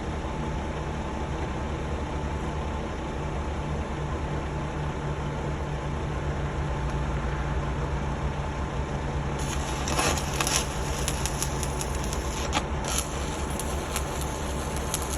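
An engine running steadily at idle. From about nine seconds in, a run of sharp crackles and clicks plays over it.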